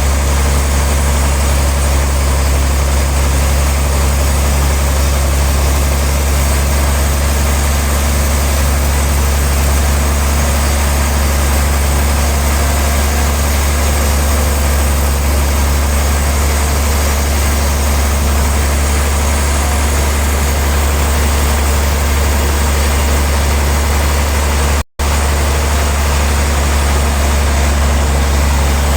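Heavy sawmill machinery running steadily with a deep, constant hum under an even mechanical noise. The sound cuts out for a split second about 25 seconds in, then resumes unchanged.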